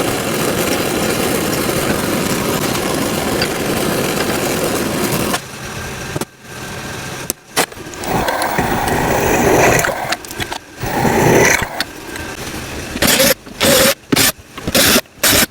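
Handmade tattoo machine built from railroad-tie nails buzzing steadily, then running unevenly and cutting on and off several times near the end.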